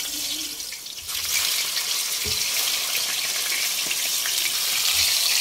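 Ripe plantain slices sizzling in hot cooking oil in a frying pan. The sizzle grows louder about a second in as more slices go into the oil, with a couple of soft knocks.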